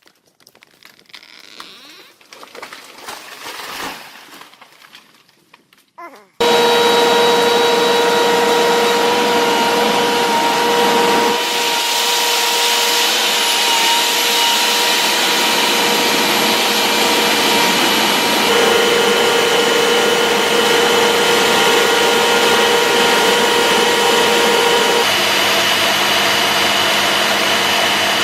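A loud motor-driven cutting machine, such as a power saw, starts abruptly after several seconds of quieter, uneven sound. It then runs steadily at high speed with a constant whine.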